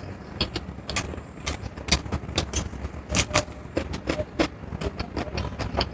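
Close-miked eating sounds: chewing with many small, irregular mouth clicks over a low background rumble.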